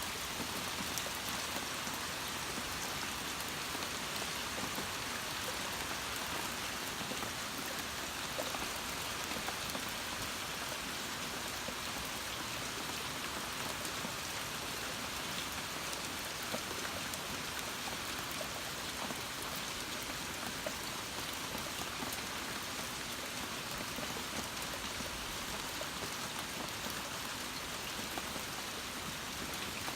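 Heavy rain falling steadily, an even hiss of rain on surfaces with faint drop ticks.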